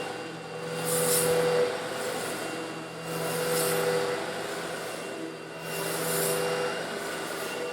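Eureka vacuum cleaner running steadily while sucking up coarse stone granules. Three times, about every two and a half seconds, a hissing rush of grit swells over the motor hum and fades again.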